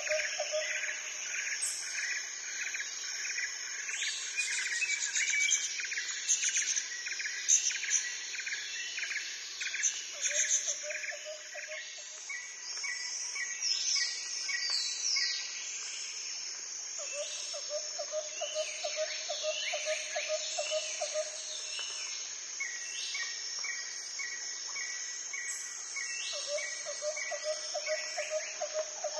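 Outdoor nature ambience: many birds chirping and trilling, with repeated quick notes, over a steady high insect drone. A lower pulsing trill comes and goes four times.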